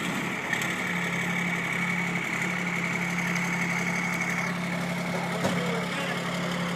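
Ram pickup's Cummins turbo-diesel engine idling steadily, with a steady whine over the idle. Two light knocks are heard, about half a second in and again past five seconds.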